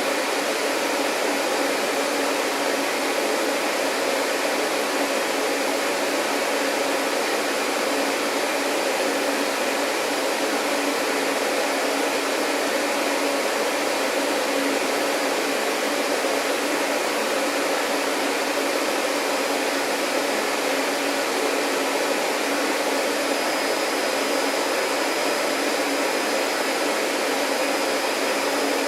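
Vacuum cleaner running steadily, an even drone of motor and rushing air. A faint high whine joins near the end.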